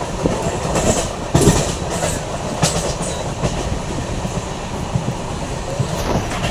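Indian Railways passenger train running along the track: a steady rumble and clatter of wheels on rail, with a few sharp knocks, the clearest about one and a half and two and a half seconds in.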